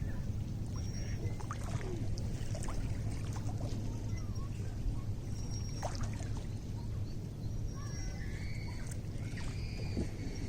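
Lake water lapping at the shore: a steady low rumble with many small irregular splashes and clicks. Short high chirps sound now and then, several close together about eight to ten seconds in.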